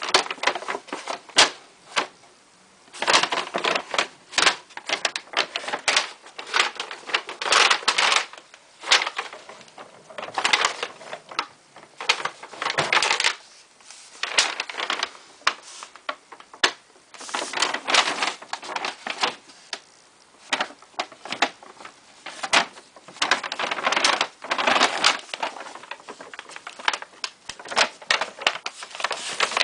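A thin plastic bag crinkling and rustling as a cat moves about in it, in irregular bursts of sharp crackles with short lulls between.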